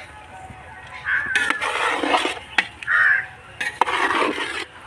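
Several harsh bird calls, with a few short sharp clicks among them.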